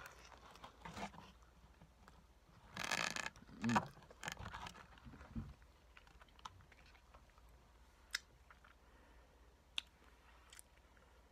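A person chewing a mouthful of Big Mac, with soft mouth noises and a short rustle about three seconds in, then only a few faint clicks.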